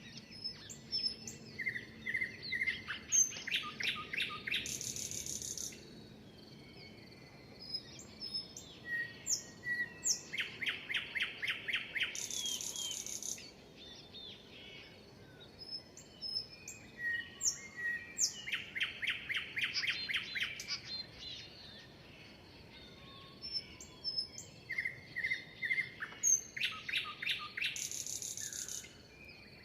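A songbird singing the same song four times, about every seven or eight seconds. Each song starts with a few short notes, speeds into a fast run of about eight notes, and ends in a high, buzzy trill. Other birds chirp faintly in the gaps.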